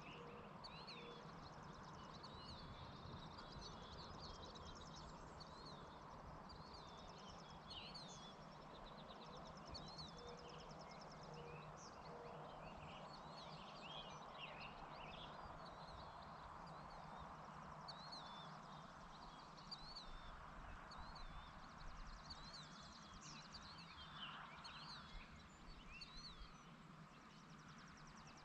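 Faint outdoor evening ambience: small birds chirping and giving rapid trills again and again, over a steady soft background hiss and low hum.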